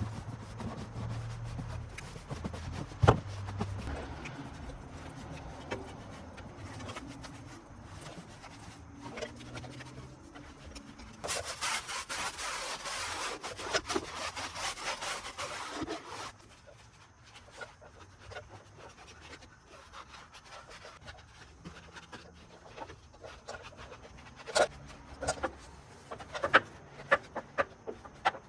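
Scrubbing on a car wheel and tire, with a hissing spray lasting about five seconds midway and a few sharp clicks near the end.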